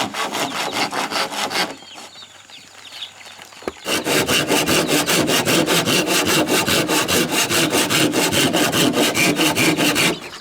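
Wood being sawn by hand, in quick, even back-and-forth strokes. The sawing stops for about two seconds near the start, then picks up again at the same steady pace.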